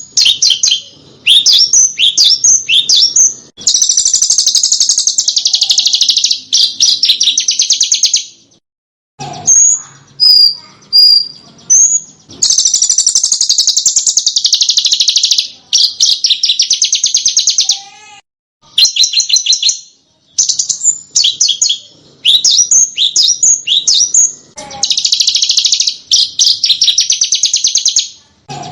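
Small songbird singing in long bursts of rapid, high-pitched trills a few seconds each, broken by short chirps, clear whistled notes and brief pauses: masteran song used to train caged songbirds to copy it.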